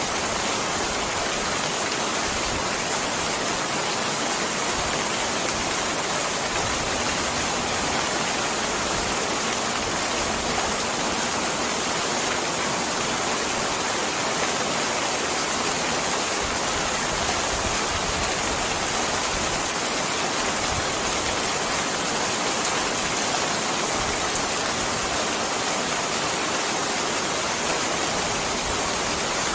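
Steady, heavy rainfall: an even, unbroken hiss of rain that holds the same level throughout.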